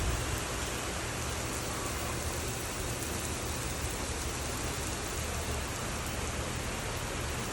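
Steady rain falling and pattering on grass, plants and hard surfaces, an even hiss without change.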